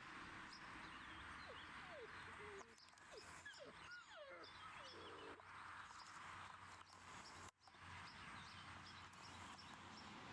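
Faint outdoor ambience: small birds chirping repeatedly over a steady low hiss, with a few lower sliding calls in the first half. The sound cuts out for a moment about three-quarters of the way through.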